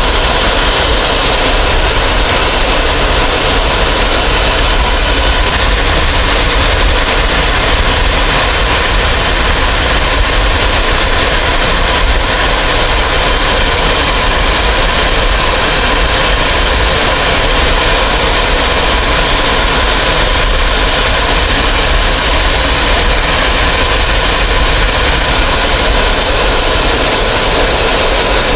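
Steady aircraft engine noise, loud and even throughout, with a low rumble and a faint steady hum in it.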